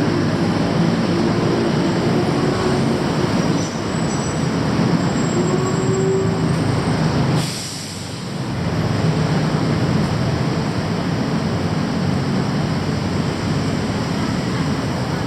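Loud, steady rumble of heavy vehicle noise, dipping briefly about halfway through.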